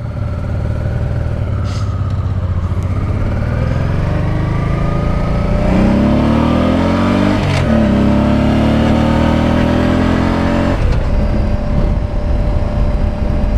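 Honda Deauville 650's V-twin engine pulling away under throttle, its pitch climbing through the revs, dipping briefly at a gear change about seven seconds in and climbing again. Near eleven seconds the revs drop at another shift and the engine settles to a steady cruise.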